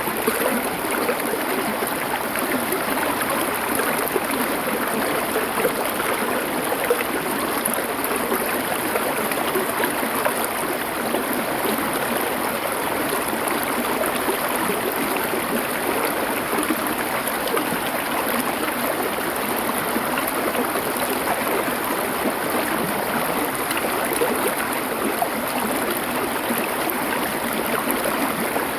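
Stream flowing over stones: a steady, unbroken rush of water with fine splashing and gurgling texture.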